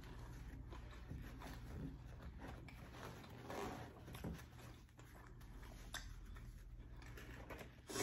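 Faint close-miked eating sounds: chewing with the mouth closed, and a paper napkin rustled and set down on the table, with a few small clicks.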